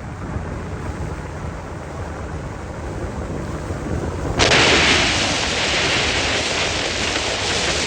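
Carbureted boat motor running on year-old stale fuel, mixed with wind rumbling on the microphone. The noise jumps louder and brighter about four and a half seconds in.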